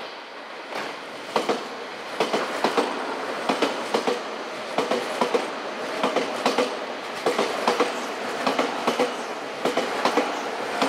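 Electric commuter train running through the station, its wheels clattering over rail joints and points in a long run of sharp clicks, often in quick pairs. The sound grows from about a second in and eases off near the end.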